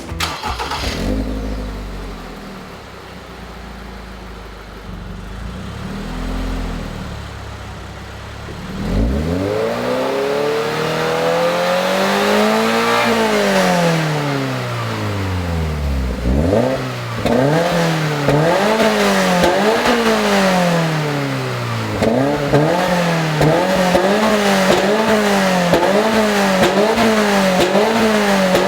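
Toyota GR86's 2.4-litre flat-four with a SARD stainless-steel aftermarket exhaust, heard stationary. It runs low for the first several seconds, is revved high and let fall about nine seconds in, and is then blipped repeatedly, about once a second. The idle is fairly quiet, and the exhaust note is said to get good from around 5000 rpm.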